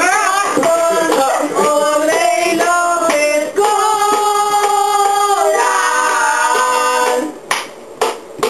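Several voices singing a cappella in harmony, holding long notes and stepping between them together; the singing stops about seven seconds in, followed by a few sharp taps.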